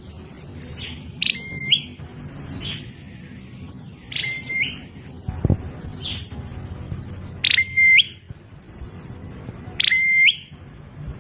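Prenjak klawu (a prinia) calling: a run of short, high, falling chirps about two a second, broken every three seconds or so by a louder call, a sharp upward note that drops to a flat, held whistle. A single dull thump about halfway through.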